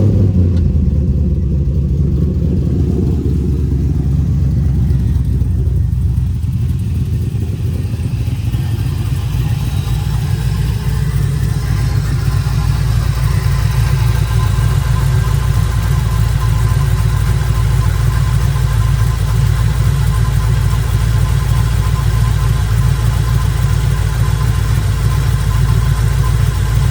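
Chevrolet 6.0-litre LS V8 catching right at the start, then idling steadily. The engine is suffering from blow-by and is due to be re-ringed.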